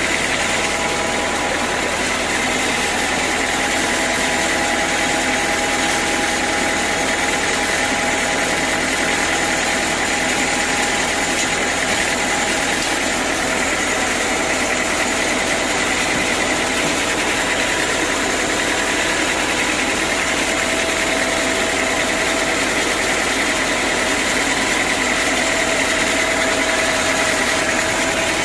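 Sawmill machinery running steadily: a constant mechanical noise with a few steady high tones through it, holding the same level throughout.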